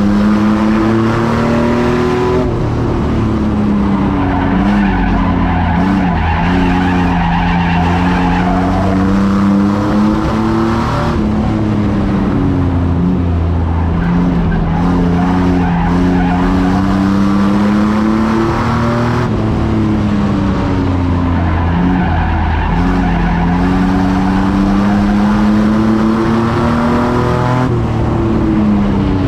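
A race truck's engine running hard at high revs in a truck enduro, its note dropping and climbing back roughly every eight seconds as it lifts for the turns and accelerates out again. The engine runs over loud tyre and track noise.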